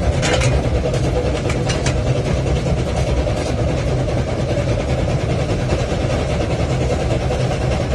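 Railway locomotive running steadily with a continuous heavy rumble, with a few sharp clicks in the first two seconds.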